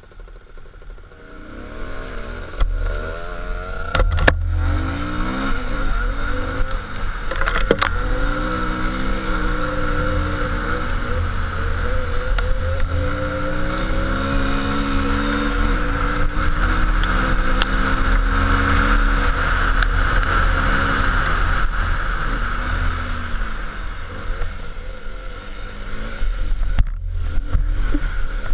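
A motor vehicle's engine running under load with a low rumble, its pitch rising and falling repeatedly as it works along a rough road, with a few sharp knocks and rattles.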